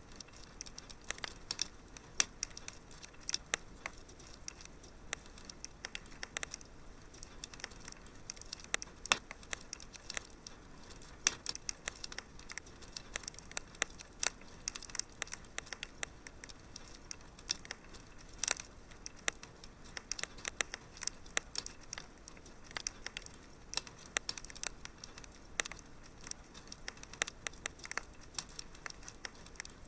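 Wood fire crackling: irregular pops and snaps over a soft, steady hiss.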